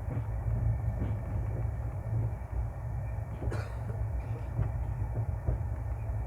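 Passenger train running into a station: a steady low rumble, with wheels clicking irregularly over rail joints and one sharper clank about three and a half seconds in.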